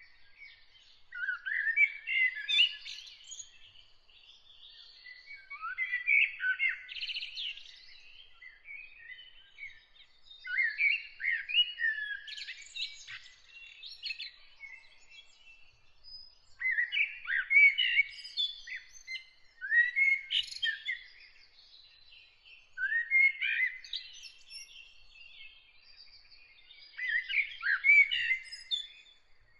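A songbird singing in separate phrases of rapid twittering chirps and gliding notes, each phrase about two to three seconds long, with short pauses of a second or two between them.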